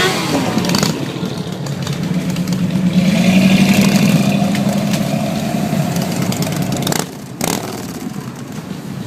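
Vehicle engines running as cars and motorcycles pass, one growing louder and then easing off around three to four seconds in. A siren's falling wail trails off right at the start.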